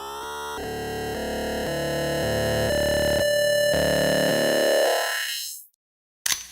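Synthesized sound effect: a buzzy electronic tone that slides upward, then steps through a run of notes about twice a second, growing louder before fading out. A short sharp click follows near the end.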